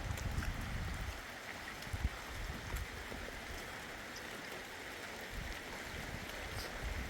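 Steady hiss of rain and running water, with low rumbles in the first second and a few brief low thumps.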